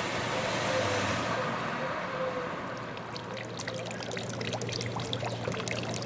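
A passing vehicle's noise fades over the first two seconds, giving way to a steady patter of water splashing and trickling over a low, even hum.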